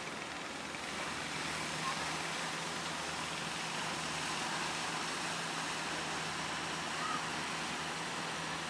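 Steady rushing noise of sea surf, with a faint steady low hum underneath.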